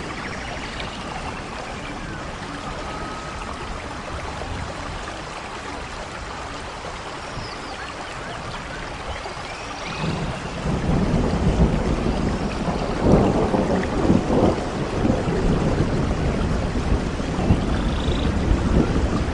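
Steady rain falling, with a low rumble of thunder that swells about halfway through and keeps rolling on.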